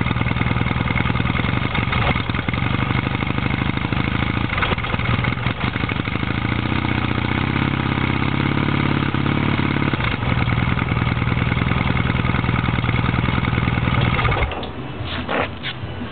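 1981 Yamaha XS650 air-cooled parallel-twin engine running steadily through its stock exhaust, then cutting off suddenly about fourteen and a half seconds in, followed by a few short knocks and clicks.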